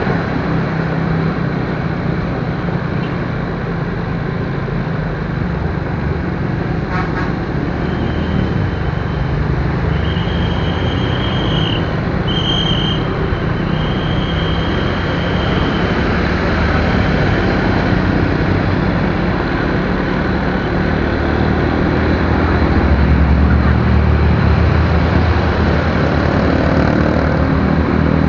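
Steady road-vehicle noise: a low engine rumble under a broad rush of road or wind noise, the rumble growing louder a little over three-quarters of the way through. Around the middle, a high thin tone sounds in four short bursts.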